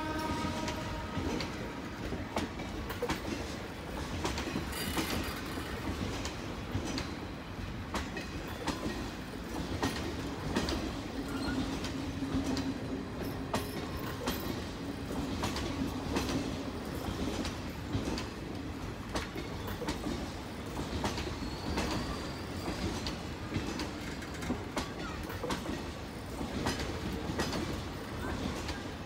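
Passenger coaches of an express train running past at speed: a steady rumble of wheels on rail with a quick run of clickety-clack as the wheels cross rail joints.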